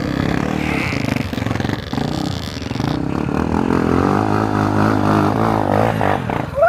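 Trail motorcycle engine running under throttle, its note shifting in pitch and dropping about six seconds in.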